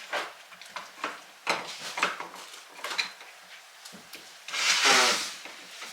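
Door hardware being fitted into a wooden entry door: light clicks and taps, then a loud scrape of parts rubbing against the wood, lasting just under a second, about four and a half seconds in.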